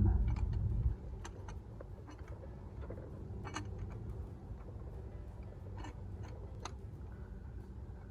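Scattered light metallic clicks and taps as a coolant pipe is worked and squeezed into place by hand, over a low steady hum. A heavier low rumble fills about the first second.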